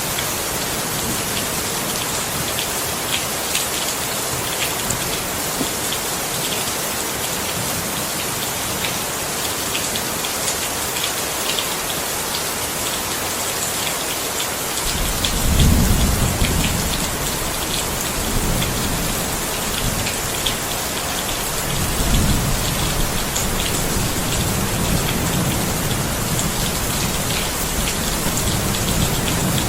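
Steady heavy rain with the patter of individual drops. About halfway through, rumbling thunder sets in, loudest at first and again a few seconds later.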